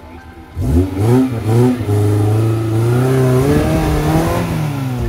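An off-road 4x4's engine revving hard. It starts suddenly about half a second in, surges up and down in pitch a few times, then holds at high revs for a couple of seconds before easing off near the end.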